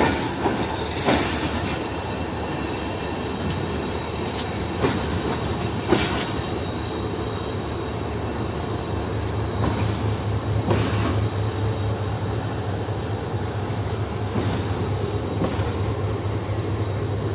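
A passenger train rolling slowly through a station yard, heard from aboard. Its steel wheels clack now and then over rail joints and points, with a faint high wheel squeal in the first half and a steady low hum joining about halfway through.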